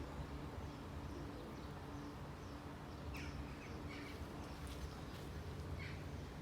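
Small bird chirping: a series of short, high chirps about every half second, starting about halfway through, over a low steady hum.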